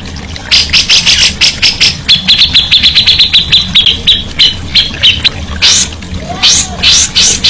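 Songbird singing fast runs of sharp, evenly repeated notes, about seven a second. In the middle a higher, clearer trill of even notes takes over.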